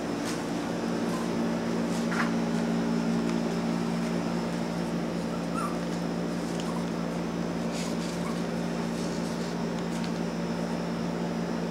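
Cockabichon puppies giving a few faint, short whimpers over a steady low electrical hum.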